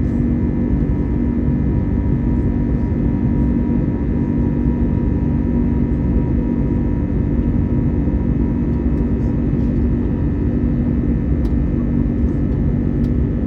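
Steady in-flight cabin noise of an Airbus A321neo: an even airflow rush and engine drone with a constant low hum.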